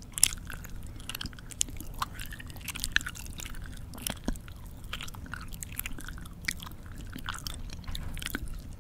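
Close-up mouth chewing: wet, irregular chewing with sharp clicks at uneven intervals and no steady rhythm.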